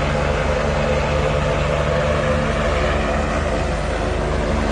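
A vehicle engine running steadily under a constant rushing noise.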